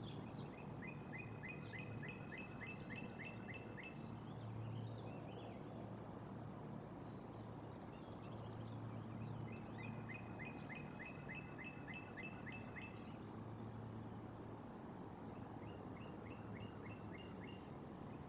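A bird calls three times in quick runs of chirping notes, each run about three seconds long. The first two runs end in a sharp high note. A steady low hum of outdoor background noise runs under them.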